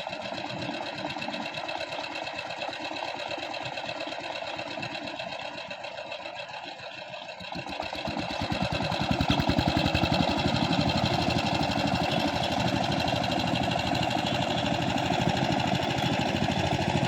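Power tiller's single-cylinder diesel engine running with a fast, even knock; it gets louder about eight seconds in.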